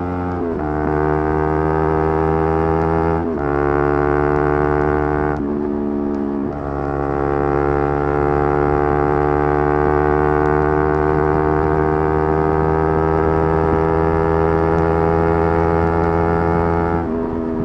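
Yamaha R3's parallel-twin engine running at high revs, a steady droning note. It breaks off briefly about three seconds in, again around six seconds and near the end, then settles back, with a long unbroken stretch in between where the pitch creeps slowly upward.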